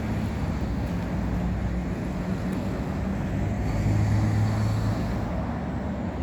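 A bus's diesel engine running steadily with a low hum that grows stronger about four seconds in.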